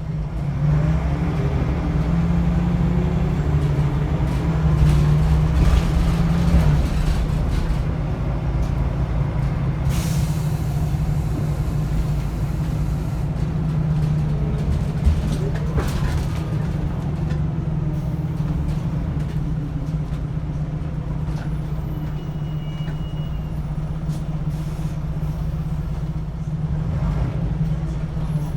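Scania L94UB bus's diesel engine running under way through its ZF automatic gearbox, heard from on board. It rises in pitch over the first several seconds as the bus gathers speed, then runs steady. Short hisses of air from the air brakes come about ten seconds in, again about sixteen seconds in, and near the end.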